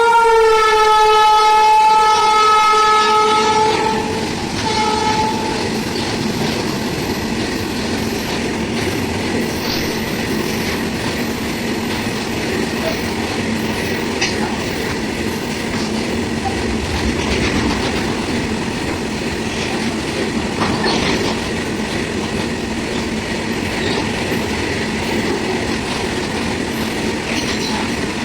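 An Indian Railways train's horn sounds one long blast that sags slightly in pitch, then a short second blast about five seconds in. This is followed by the steady rumble and clickety-clack of a train rolling past.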